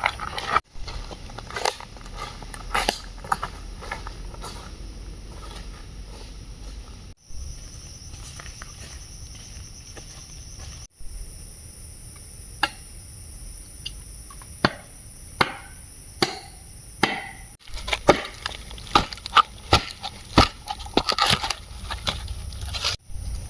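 Scattered sharp knocks and clicks of hands-on camp work, coming thicker in the second half, over a steady high-pitched insect drone. The sound drops out for an instant several times.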